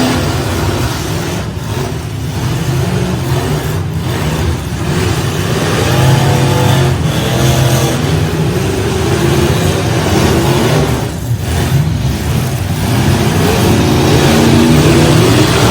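Derby trucks' engines running hard and revving, their pitch rising and falling throughout.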